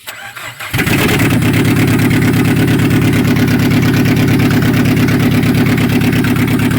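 Peugeot 406 engine running steadily, loud and close, with a sudden jump in level under a second in. It runs again after its crank-no-start fault, which was cured by putting the swapped crank sensor and knock sensor plugs back on their right sensors.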